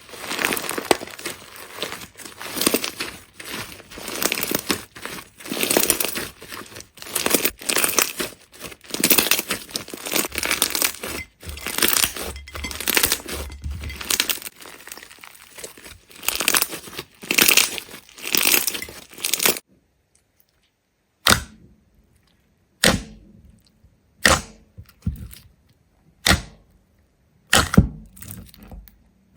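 Continuous crunching and crackling, like something brittle being broken and torn apart, that stops abruptly about two thirds of the way through; after that, single sharp cracks about every second and a half.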